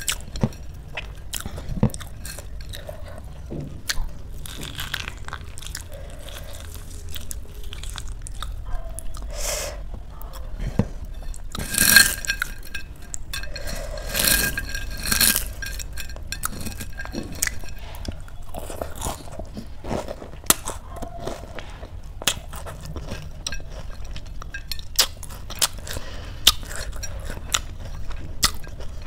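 Close-up crunching and chewing of crisp papad, with fingers gathering the papad crumbs across a ceramic plate: a steady string of small crisp clicks, with louder crunches about twelve and fifteen seconds in.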